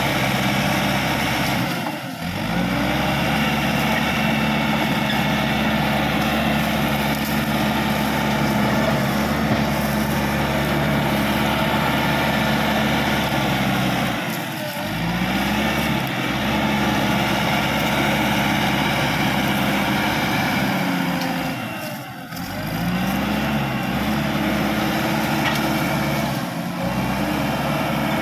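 Caterpillar crawler bulldozer's diesel engine running steadily under working load. Its pitch sags three times, about 2, 14 and 22 seconds in, and climbs back each time.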